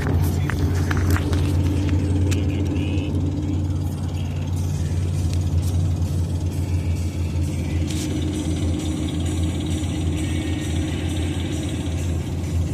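Steady low drone of road and engine noise inside a moving car's cabin, with a few sharp clicks and rattles in the first few seconds.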